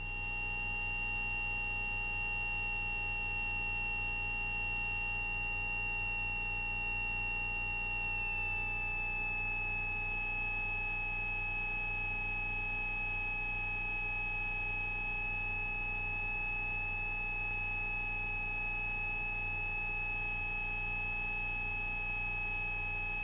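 A steady, high-pitched electronic tone over a low hum in the cockpit audio. It drops slightly in pitch about eight seconds in.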